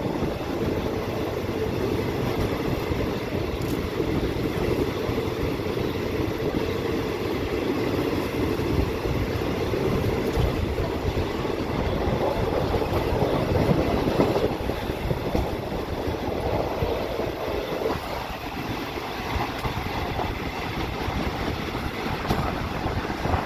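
A passenger train running along the track, heard from an open coach window: a steady rumble of wheels on rails and the moving coach. About 18 seconds in the running note eases off a little and gets slightly quieter.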